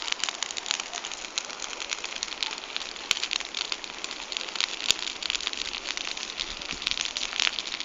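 Campfire burning, crackling with irregular snaps and a few louder pops, over a steady hiss of flame.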